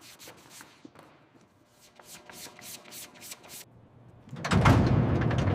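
Short, soft rubbing strokes of a polishing cloth on an aircraft's metal skin, several a second for a while. About four and a half seconds in, a loud, steady noise with a low rumble starts suddenly.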